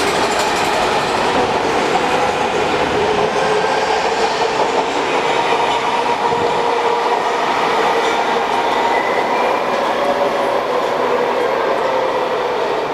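MARTA rapid-transit train of CQ310/CQ311 railcars running steadily on the rails, a continuous rumble with faint steady whining tones over it.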